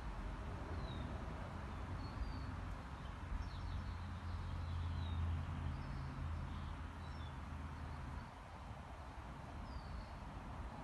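Outdoor ambience: several short, high bird chirps scattered over a low steady hum.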